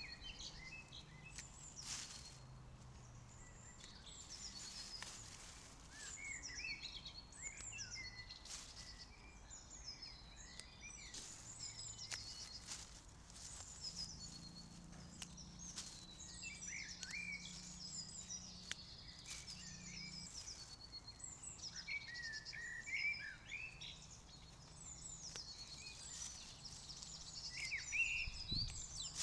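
Woodland birdsong: several small birds singing at once in quick chirps and trills, over a faint steady low drone.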